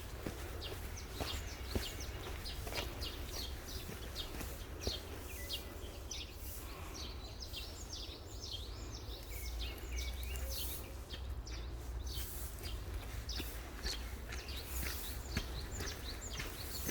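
Small birds chirping, many short quick notes throughout, over a steady low rumble.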